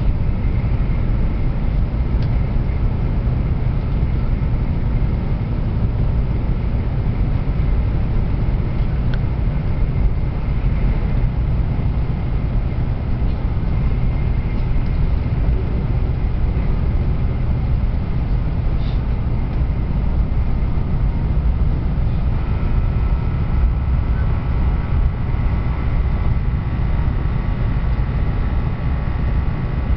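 Train running: a steady low rumble, with a faint whine joining about two-thirds of the way through.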